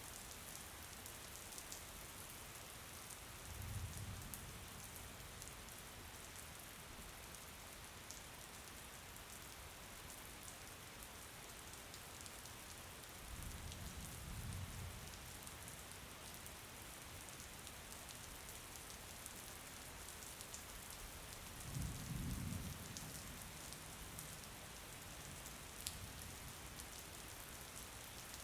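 Steady rain falling, an even hiss with the patter of individual drops. Three brief low rumbles stand out over it, about 4, 14 and 22 seconds in.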